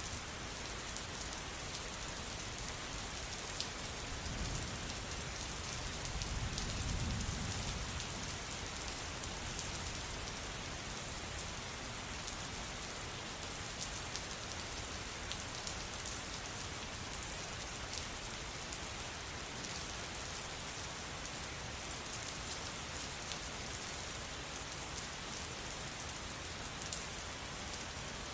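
Steady rain falling, an even hiss with the fine ticks of individual drops striking a surface. A low rumble swells for a couple of seconds about six seconds in.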